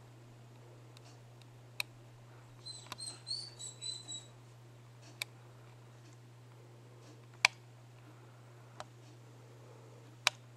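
A small bird gives a quick run of short, high chirps about three seconds in. Several sharp clicks stand out, the loudest two near the end, over a steady low hum.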